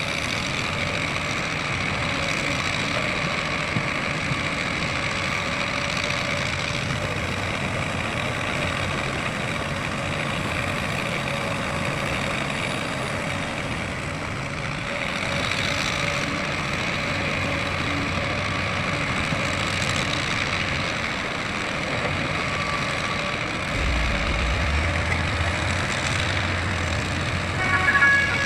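Heavy diesel vehicle engine running steadily, with a deeper low rumble coming in near the end.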